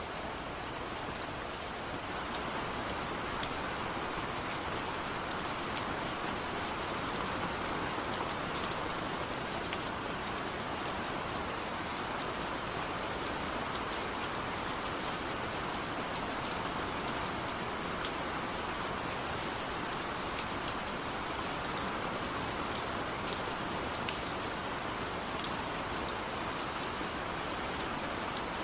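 Steady rain falling, with a dense even hiss and scattered sharper drops hitting nearby surfaces.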